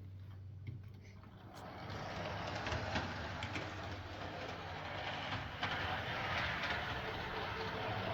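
An HO scale DC model locomotive running along the track, its motor and wheels making a steady whirring rattle that comes up about a second and a half in, over a low steady hum.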